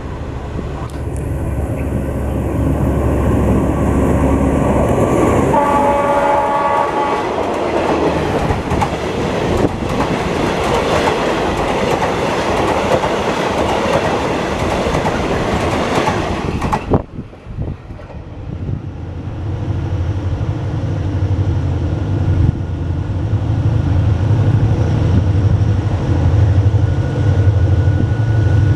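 Diesel locomotive approaching with its engine running, sounding one multi-tone horn blast about six seconds in, then passenger coaches rolling and clattering past over the rail joints. After a sudden break near the middle, another diesel locomotive's engine drones, growing louder as it approaches.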